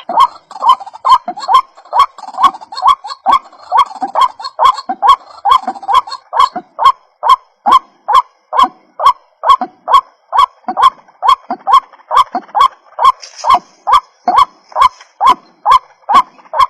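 White-breasted waterhen calling: a rapid, steady series of short repeated 'ruak' notes, about two or three a second.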